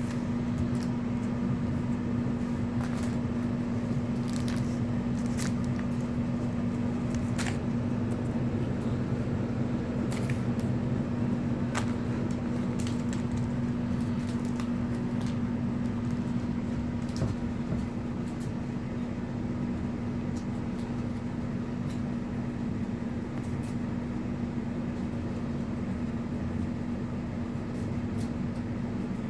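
A steady machine hum with one even tone, with scattered light clicks and ticks over it.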